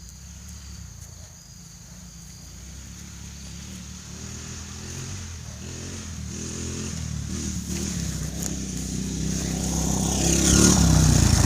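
Small off-road vehicle engine approaching, growing steadily louder until it is close by near the end.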